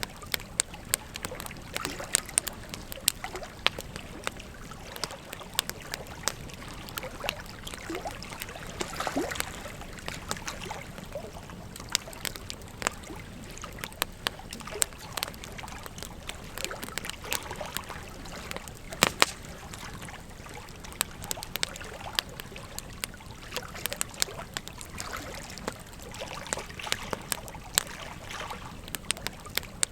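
Wood fire crackling, with many sharp pops, a louder one about two-thirds of the way through, over the steady rush of a flowing river.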